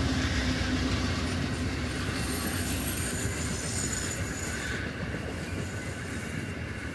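Train rolling past on the rails, gradually fading as it moves away. Faint high-pitched wheel squeal comes in about two seconds in and lasts a couple of seconds.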